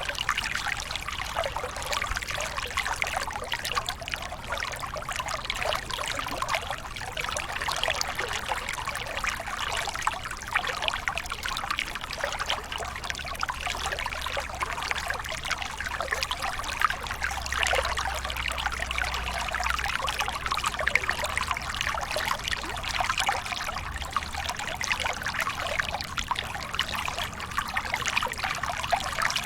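Waterfall water splashing and trickling steadily, a bright, close patter of water with little deep rumble.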